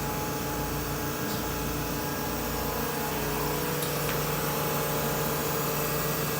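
2008 Anderson CNC router running a program, its spindle turning at about 9,000 RPM with a steady machine hum; the sound grows a little louder about three and a half seconds in.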